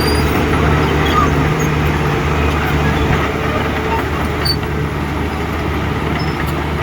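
Heavy earthmoving machinery's diesel engine running steadily with an even, low engine note.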